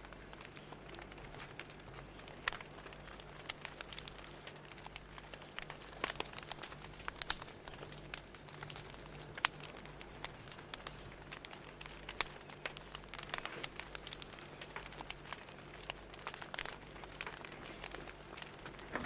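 Wood fire crackling: irregular pops and snaps over a faint steady hum.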